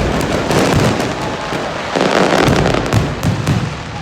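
Dense fireworks barrage, many pops and crackles running together into a continuous rattle that swells louder twice.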